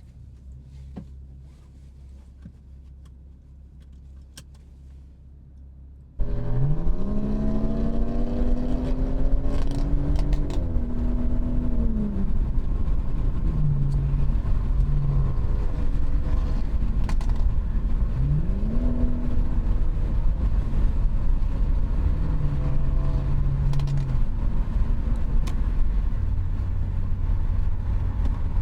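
BMW 540i's B58 3.0-litre turbocharged inline-six, muffler-deleted, with the exhaust note as the car drives. A quiet low hum gives way suddenly, about six seconds in, to a loud engine note. The pitch climbs steeply under acceleration, then falls back, and rises steeply again about eighteen seconds in.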